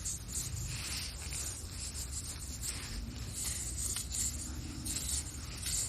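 Sand being scraped and raked through during a search for a buried metal-detector target: repeated irregular gritty rubs over a low steady rumble.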